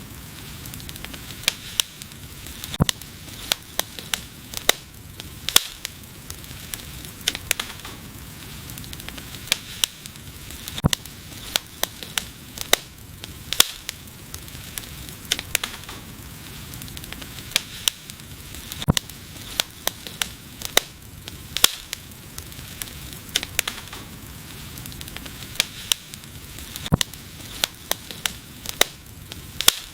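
Wood fire burning with a steady hiss and frequent sharp, irregular crackles and pops.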